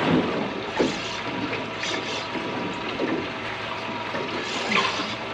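Water splashing and sloshing against a small boat, with a few sharper splashes among the steady wash.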